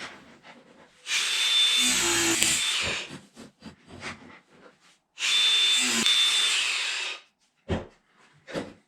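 A handheld power tool run in two bursts of about two seconds each, with clicks and knocks of handling between and after them.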